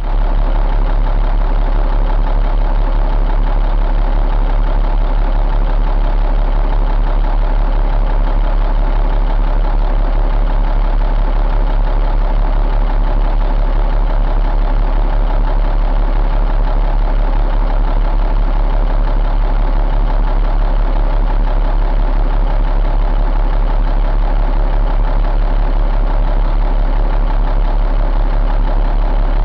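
Caterpillar C12 inline-six diesel engine idling steadily, with an even rapid pulse.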